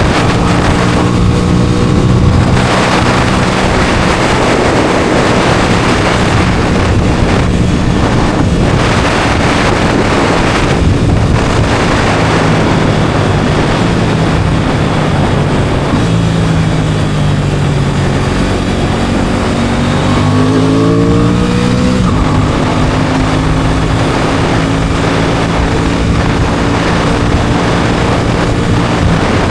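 Aprilia Tuono 660 Factory's parallel-twin engine running on the move, with wind rushing over the microphone. The engine note sinks for a couple of seconds past the middle, then climbs quickly as it revs up before settling again.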